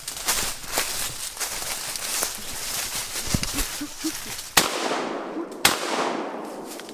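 Two gunshots about a second apart, each a sharp crack followed by an echoing decay, after a stretch of rustling and crackling in leaves and brush.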